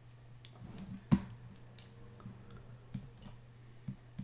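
Scattered faint clicks from a computer mouse and keyboard, with one sharper click about a second in, over a low steady hum.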